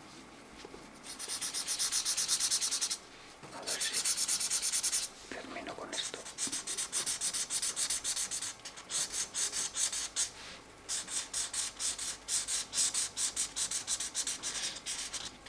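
Felt-tip marker nib scratching on colouring-book paper in quick back-and-forth colouring strokes. It comes in several runs of rapid strokes, a few seconds each, separated by short pauses.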